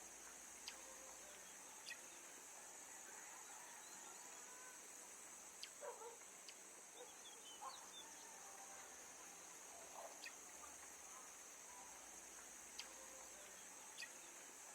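Faint forest ambience: a steady high-pitched hiss with a few sharp ticks scattered through it and some faint short bird-like chirps and calls around the middle.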